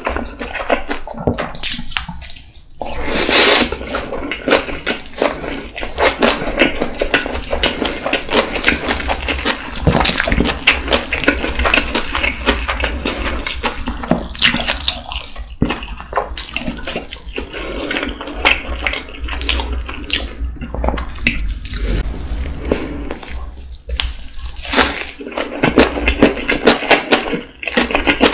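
Close-miked chewing of tuna kimbap, with wet, smacking mouth sounds and many small crackles and clicks, and a louder burst about three seconds in.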